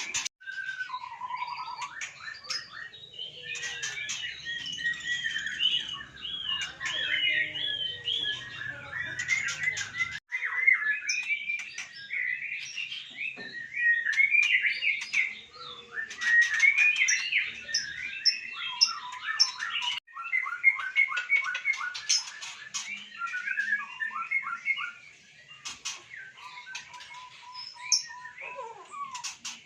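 White-rumped shamas singing and calling: a busy, varied run of whistles, chirps and harsh notes, with abrupt cuts about 10 and 20 seconds in.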